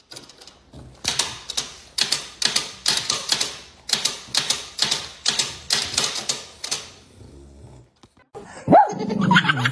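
A rapid run of short scratchy strokes, about two to three a second, lasting some six seconds. Near the end comes a short voice-like cry that falls in pitch.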